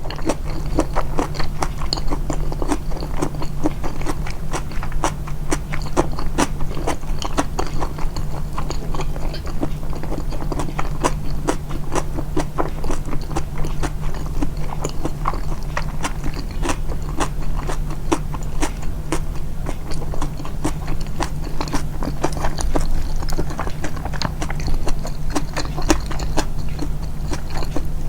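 Close-miked chewing and biting of food: a dense, uneven run of small wet clicks and smacks from the mouth, edited to stand out, over a low steady hum.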